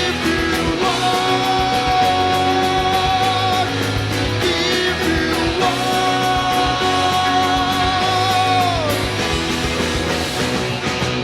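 Rock band playing, with a lead line of two long held notes, the second one bending down near the end.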